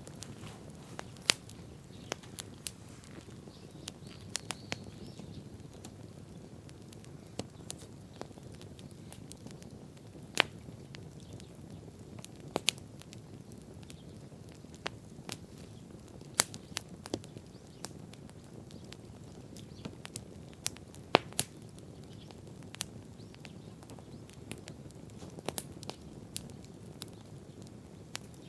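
Wood bonfire crackling: sharp, irregular pops and snaps, a few of them much louder, over a steady low rush.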